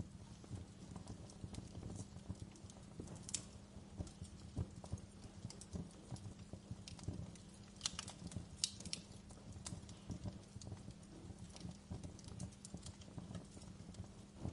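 Fireplace crackling: a dense, irregular run of small pops and snaps over a low steady rumble, with a few sharper snaps, the loudest just past the middle.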